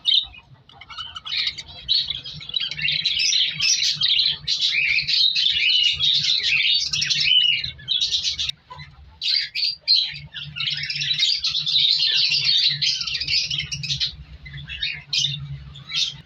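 A colony of budgerigars chattering and chirping together in a dense, continuous stream of high-pitched calls, with brief lulls about halfway through and near the end.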